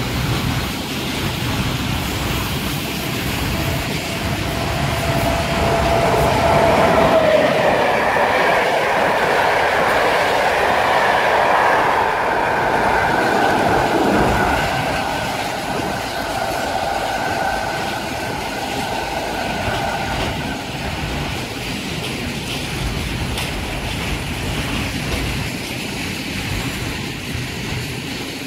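A freight train of open coal wagons rolling past on the rails, its wheels clattering over the rail joints. Through the middle there is a high squeal from the wagon wheels that fades out about two-thirds of the way through.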